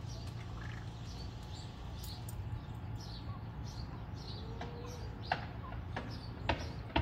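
Faint, scattered chirps from small birds over a steady low rumble. From about five seconds in comes a run of sharp clicks, roughly two a second.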